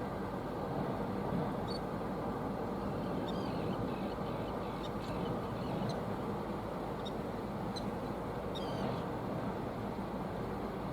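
Steady low outdoor rumble, with faint, short, high chirps of small birds scattered through the middle.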